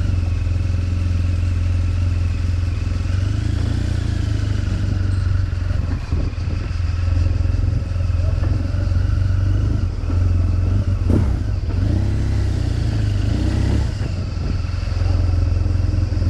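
BMW R 1200 GS boxer-twin engine with an SC Project exhaust running as the motorcycle is ridden, a steady low drone with small changes in engine speed.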